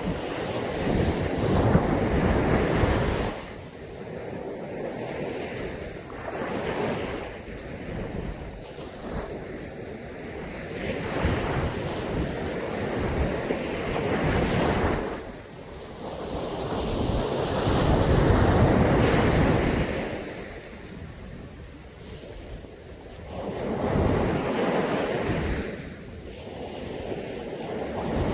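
Caribbean Sea waves breaking on a beach and washing back, swelling and ebbing every few seconds.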